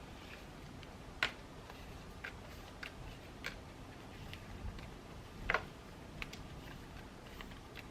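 Irregular light clicks and taps of stationery and journaling supplies being handled on a desk, two of them sharper, about a second in and midway. A faint steady rain hiss runs underneath.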